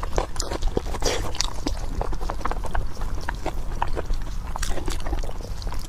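Close-miked chewing and biting of pork: many irregular wet mouth clicks and smacks, over a steady low hum.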